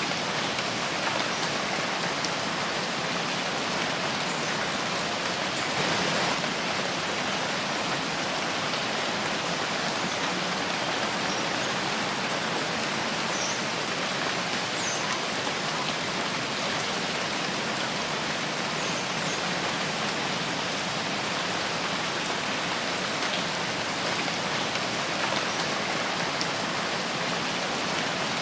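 Steady rain falling in a forest: a dense, even hiss of drops on foliage and ground, with a slight swell about six seconds in.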